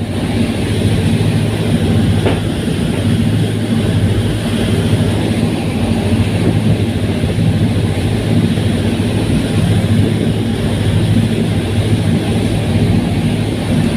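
Ocean Jet 3 fast ferry's engines running steadily: a constant low drone under a continuous hiss, with a thin high whine over it.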